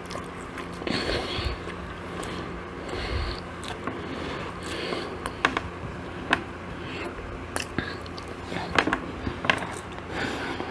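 Eating sounds of chicken and waffles: chewing and biting with scattered sharp clicks and short scraping noises.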